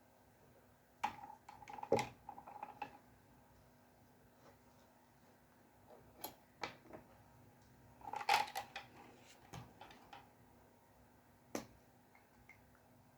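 Scattered light clicks and taps of dip-pen drawing tools being handled on a desk. There is a short flurry about a second in and another about eight seconds in, with single taps between.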